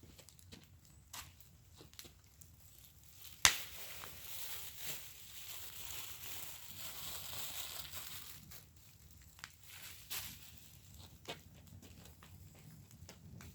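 Wood fire in a fire pit crackling with scattered pops, one sharp loud pop about three and a half seconds in, followed by a few seconds of hissing.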